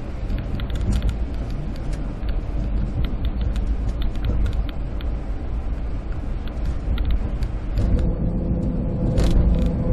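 Road noise inside a moving car: a steady low rumble of engine and tyres on the highway, with faint scattered ticks, and a steadier hum coming in for the last two seconds or so.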